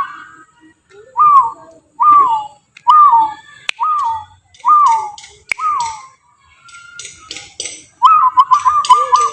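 A man whistling imitation bird calls: six separate whistled notes, each sliding down in pitch, about one every 0.7 seconds. Near the end comes a fast trill of short repeated whistles.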